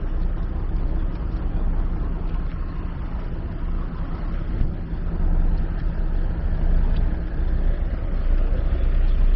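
Street traffic with a heavy vehicle's engine running close by: a steady low hum over traffic noise, growing a little louder in the second half.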